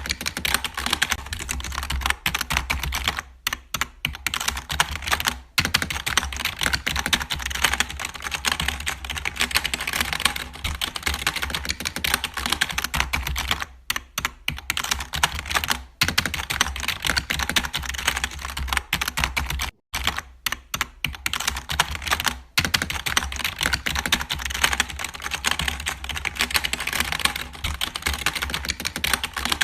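Fast, continuous clicking and tapping, like typing, broken by a few short pauses.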